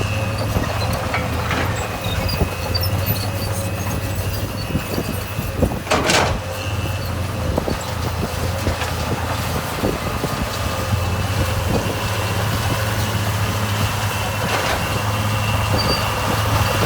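Heavy earthmoving machine's diesel engine running steadily, with scattered knocks and one loud clank about six seconds in.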